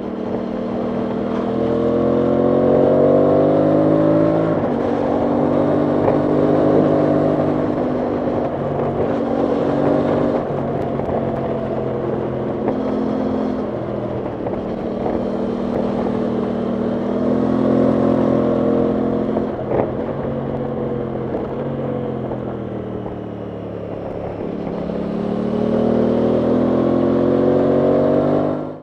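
Aprilia Tuono 660 Factory's parallel-twin engine under way, its pitch rising in several pulls through the revs and falling back between them, with steadier cruising stretches.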